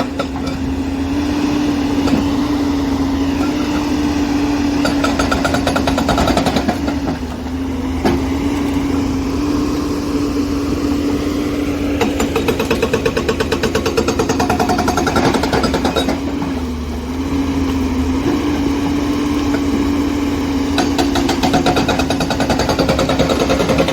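JCB excavator's diesel engine running steadily under load while a hydraulic rock breaker hammers rock in stretches of rapid blows, with two brief pauses.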